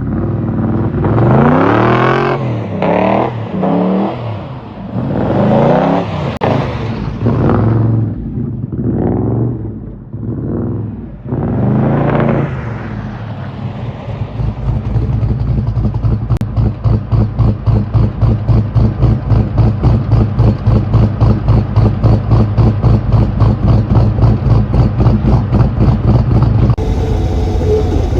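Chevrolet LS3 6.2-litre V8 in a 1982 Impala revving up and down several times, its pitch rising and falling. About halfway through it settles into a steady, evenly pulsing rumble. The engine's tune is not yet finished.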